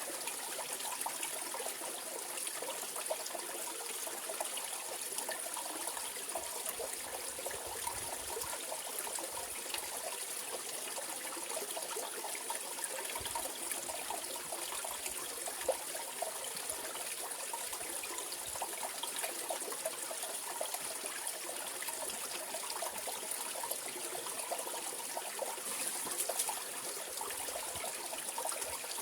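Mountain stream flowing steadily over rocks, a continuous rush with fine trickling and splashing.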